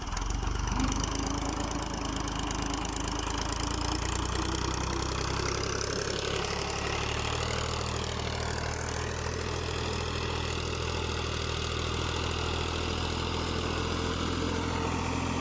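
Fiat 480 tractor's diesel engine running steadily at a constant pace.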